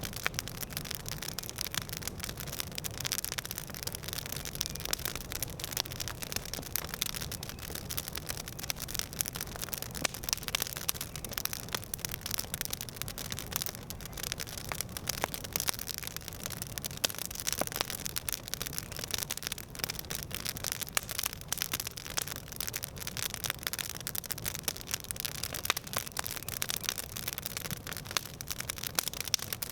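Campfire crackling steadily: a dense, irregular run of small pops and snaps over a soft hiss.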